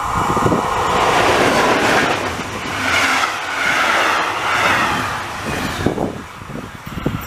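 Electric locomotive and passenger coaches passing close by: a loud rushing rumble of wheels on rail that swells as the locomotive arrives, holds while the coaches go by, and fades after about six seconds.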